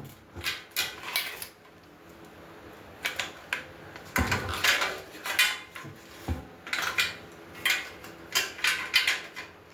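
Metal grill parts clinking and clattering in irregular knocks while being handled and fitted together during assembly, with a couple of duller thumps about four and six seconds in.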